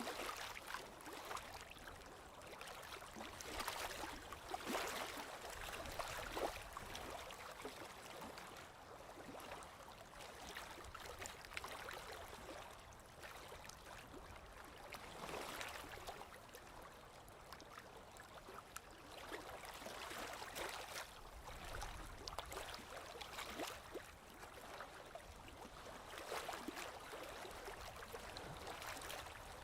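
Small waves lapping on a lake shore: a soft wash of water that swells and falls every few seconds, with little splashes and trickles between.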